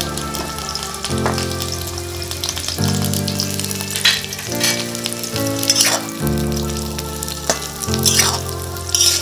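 Cut drumstick (moringa pod) pieces sizzling as they fry in hot oil in a wok. A few sharper flares of sizzle come as pieces go in and are stirred with a spatula near the end. Background music with held chords, changing about once a second, plays over the frying.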